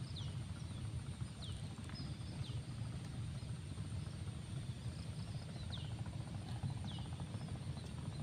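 A bird giving short, high, downward-sliding chirps, a handful of times at uneven intervals, over a steady low rumble.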